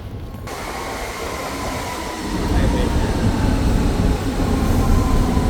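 Ride in a passenger train: a steady rumble with a faint electric motor whine, getting louder about two seconds in as the train picks up.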